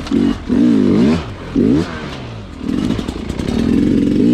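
Sherco two-stroke dirt bike engine blipped in short rev bursts, pitch rising and falling, then held on the throttle for about two seconds near the end.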